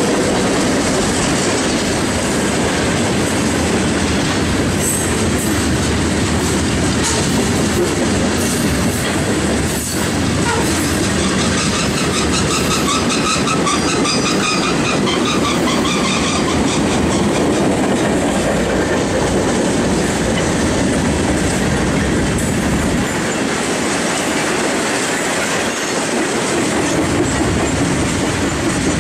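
Freight cars rolling past at close range: a steady rumble of steel wheels on rail with rhythmic clickety-clack over the rail joints. Faint wheel squeal rings out about halfway through.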